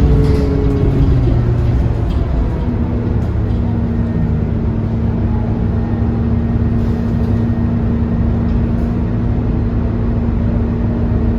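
Scania K230UB city bus's diesel engine running as the bus drives along, heard from on board: the engine note falls in the first second or so, then settles into a steady drone over a constant low rumble.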